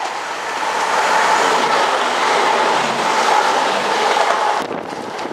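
A train passing on the line, its wheel and rail noise building over the first second, holding steady, then dropping away abruptly near the end.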